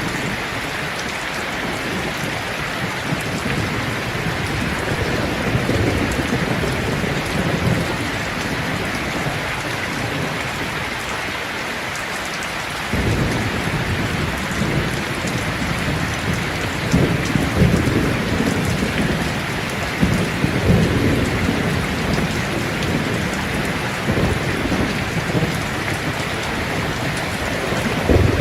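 Steady rain with thunder rumbling low underneath; the rumble grows suddenly louder about halfway through and keeps rolling in surges.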